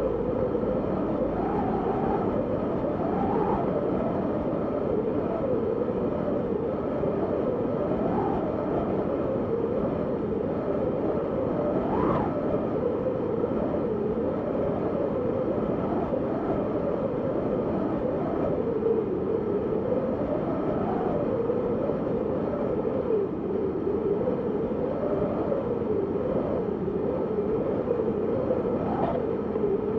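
Wind blowing steadily, with a low moaning tone that keeps rising and falling in pitch as it gusts.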